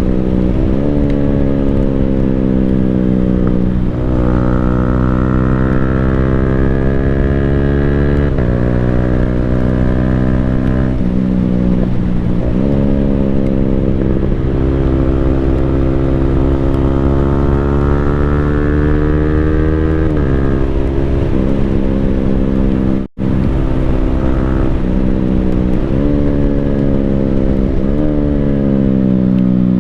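Yamaha Sniper 155R's single-cylinder engine through an Akrapovic full-system exhaust, under way and pulling hard. The pitch climbs with the revs and drops abruptly at each gear change, again and again, with a brief cut-out in the sound about three-quarters of the way through.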